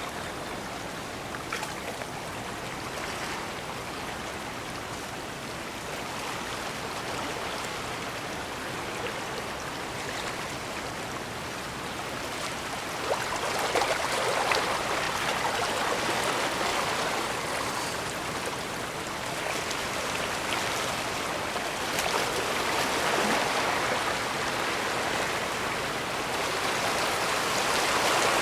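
Bay water washing and splashing continuously, swelling louder about halfway through and again near the end.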